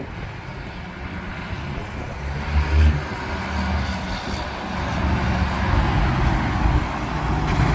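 Heavy truck engine running as it drives past, the rumble growing louder through the clip.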